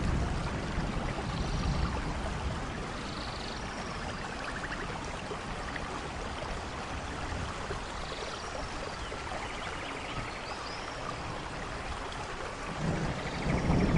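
Steady rain falling on forest leaves. A low rumble of thunder dies away over the first couple of seconds and builds again near the end, and a few faint short high animal calls sound through the rain.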